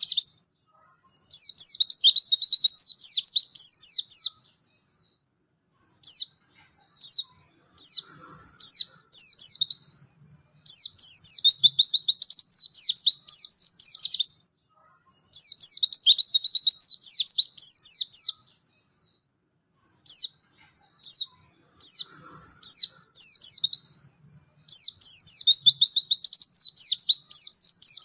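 White-eye (pleci) singing vigorously: high, rapid twittering song phrases a few seconds long, repeated again and again with short pauses between them.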